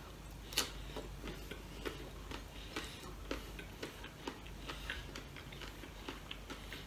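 A man chewing a mouthful of pork adobo and rice, with small irregular clicks and smacks from his mouth and from his fingers working rice on the plate.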